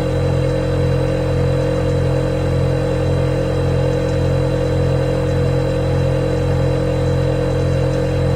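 Refrigerator running with a steady low hum, a mid-pitched drone and a faint high whine above it, unchanging throughout.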